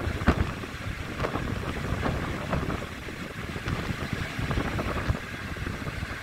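Wind buffeting a microphone held out of a moving passenger train's window, in irregular gusts over the low rumble of the carriages running on the track.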